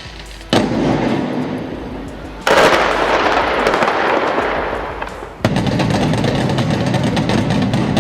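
Demolition blasts: three sudden loud bangs, about half a second, two and a half seconds and five and a half seconds in, each followed by a noisy roar that slowly fades.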